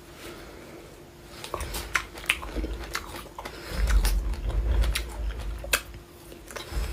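Close-miked eating: a person chewing and biting food, with wet mouth clicks starting about a second and a half in and a low rumble in the middle.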